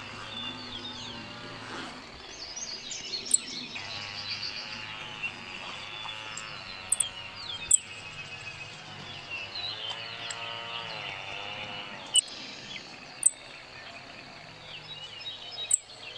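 Field recording of Grasshopper Sparrow calls played back: about six very short, very high-pitched call notes scattered through the clip, over a steady background of other birds singing.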